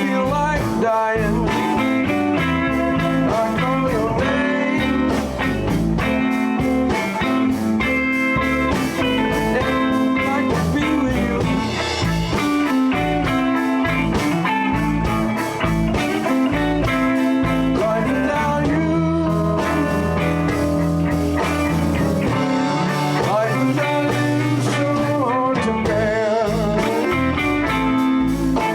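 Live blues band playing an instrumental passage: electric guitar lines over bass and drums.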